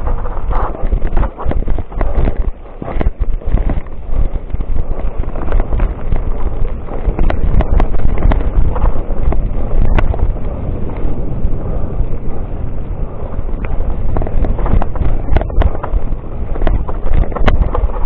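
Heavy wind buffeting the microphone of a mountain bike on a fast downhill descent, with frequent sharp clicks and knocks from the bike rattling over the rough trail.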